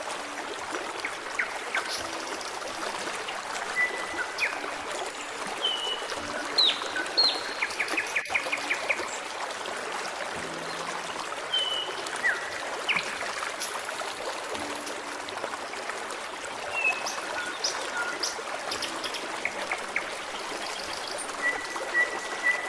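Forest stream babbling steadily, with birds singing over it: scattered short high whistles and chirps, a quick trill of repeated notes about seven seconds in, and a longer held whistle near the end.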